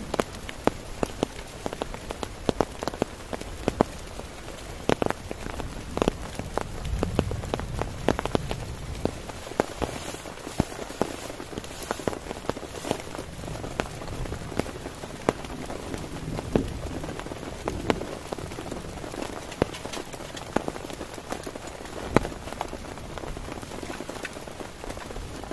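Heavy rain on a tent: a steady hiss with many irregular, sharp drop hits.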